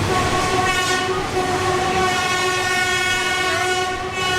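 Train horn held in one long steady blast over the rumble of the moving train.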